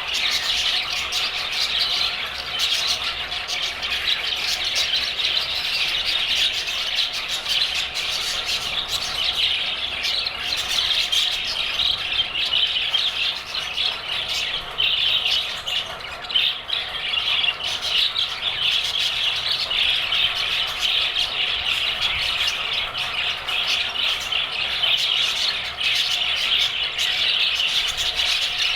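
A flock of budgerigars chattering, many birds calling over one another without a break.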